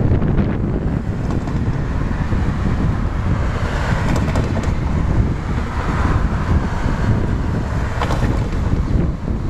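Low rumble of an approaching Queensland Rail Tilt Train, largely covered by wind buffeting the microphone.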